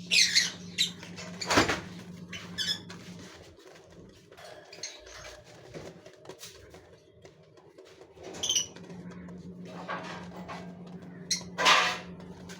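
Gouldian finches in a cage: short bursts of wing flapping and a few brief high chirps, over a steady low hum that drops out for a few seconds midway.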